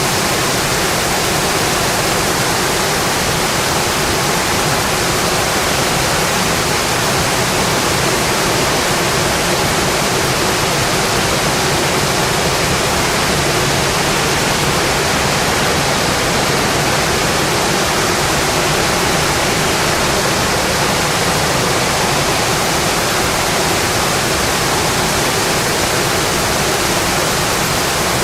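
Rain falling steadily on a windowpane, a dense, even hiss that never lets up.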